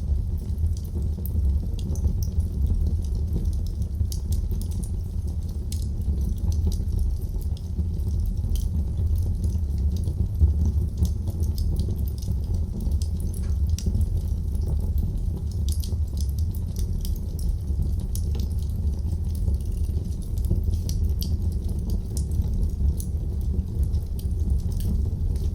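Wood fire burning in a fireplace: a steady low rumble of the flames with scattered small crackles and pops, one louder pop about ten seconds in.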